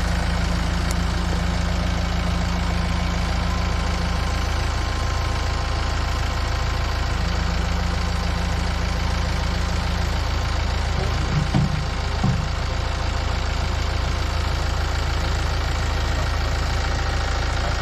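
Tractor engine idling steadily, with a few short clunks about two-thirds of the way through.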